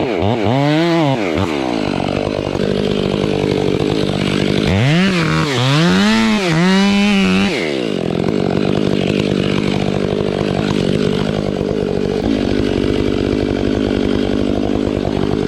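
Large chainsaw revving up and down in quick blips near the start and again in the middle, running steadily at a lower, even pitch in between and to the end.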